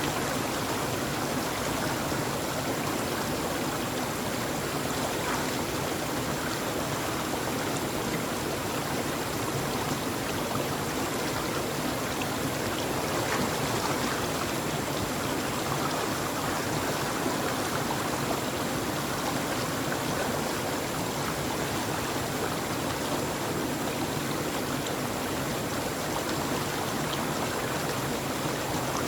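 Flowing stream: a steady, unbroken rush of running water with no changes or separate events, plus a faint high steady tone.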